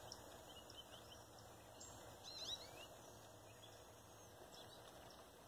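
Near silence with a few faint bird chirps, a short cluster of them about two seconds in.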